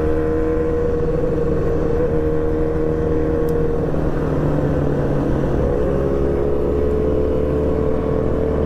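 Motorcycle engine running at a steady, even pitch while riding, with road and wind noise underneath. The note wavers briefly about halfway through, then settles again.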